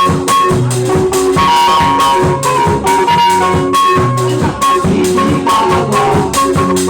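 Instrumental live band music: a drum kit keeping a steady, fast beat over bass notes and a sustained high melodic line, with no singing.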